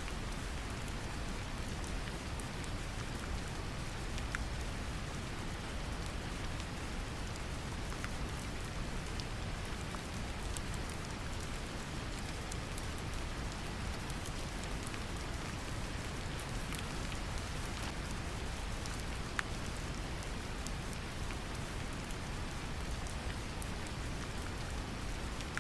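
Brown noise mixed with gentle rain: a steady, deep hiss with the patter of raindrops and scattered small drop ticks over it.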